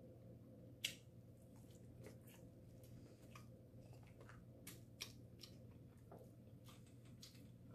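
Faint, wet chewing and mouth clicks of a person eating, irregular and scattered, with a sharper click about a second in.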